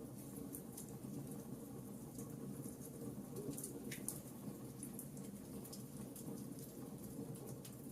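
Wood fire crackling in a fireplace: scattered small pops and snaps, a few louder ones, over a low steady rumble.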